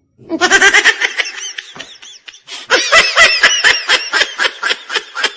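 Laughter in two bursts of quick, rhythmic ha-ha pulses. The first starts a moment in and the second about two and a half seconds in.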